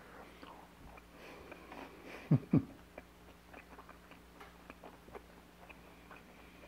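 A person chewing grilled homemade bacon, with small scattered crunching clicks throughout. About two and a half seconds in come two short, louder hummed sounds, falling in pitch, made with a full mouth.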